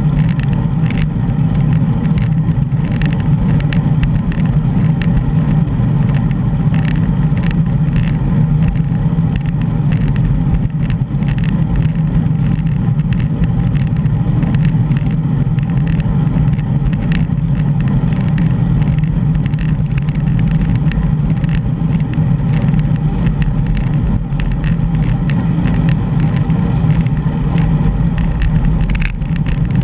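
Steady low rumble of wind and road noise from a GoPro riding along on a bicycle, with frequent small clicks and rattles.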